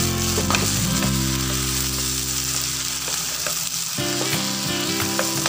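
Cabbage, carrot and green-onion stir-fry sizzling in a non-stick wok as it is stirred with a wooden spatula, which scrapes and taps the pan now and then. Steady low tones run underneath and shift about four seconds in.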